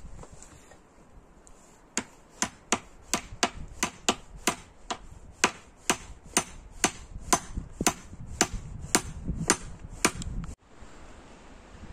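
A hand tool striking wood over and over, about two sharp blows a second, starting about two seconds in and stopping abruptly near the end.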